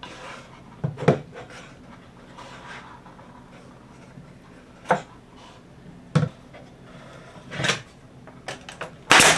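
Cedar fence-picket pieces being handled and set in place on a workbench: light rubbing with a few separate sharp wooden knocks, and a louder short burst near the end.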